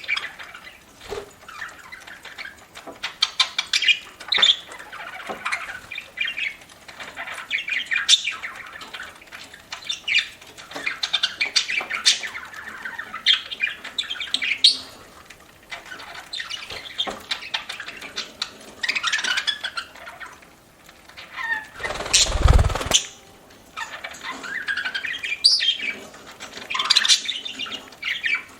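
Budgerigars chattering continuously with quick chirps, squawks and warbles. A loud noisy burst about a second long cuts in about three-quarters of the way through.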